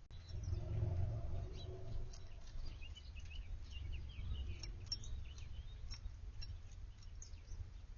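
Small backyard songbirds chirping, a scatter of short high calls that is busiest in the middle, over a steady low rumble.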